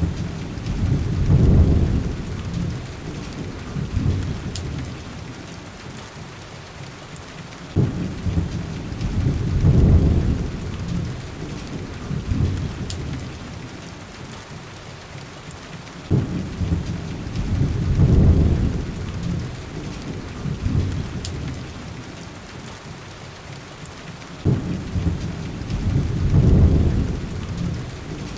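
Heavy rain on a window glass, a steady hiss, with low rolls of thunder coming about every eight seconds; each starts abruptly and swells before fading, four times in all.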